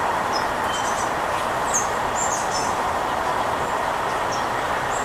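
Steady rushing background noise, with a handful of short, high bird chirps scattered through it.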